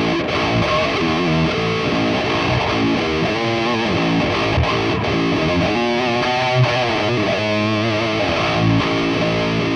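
Electric guitar with distortion playing a lead line, its notes bent and wavering in pitch, at a steady loud level.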